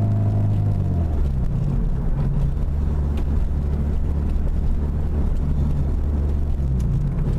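Acura RSX's four-cylinder engine heard from inside the cabin. About a second in it drops in pitch as the revs fall after a shift, runs steady at lower revs, then climbs again near the end.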